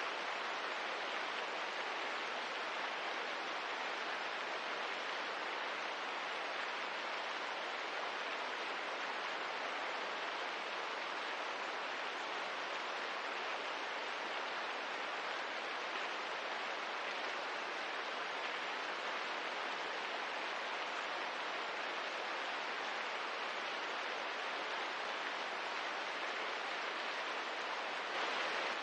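Steady rain ambience: an even, unbroken hiss with no separate drops or fire crackles standing out, swelling slightly near the end.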